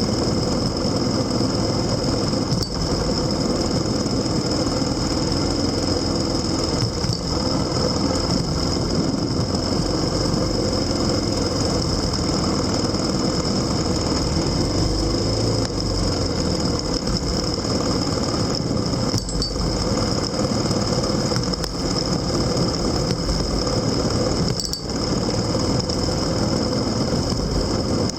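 A vehicle engine running steadily under way, with road and wind noise.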